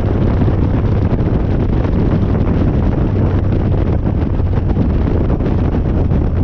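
Harley-Davidson Dyna's V-twin engine running at a steady pace while riding, with heavy wind noise on the microphone.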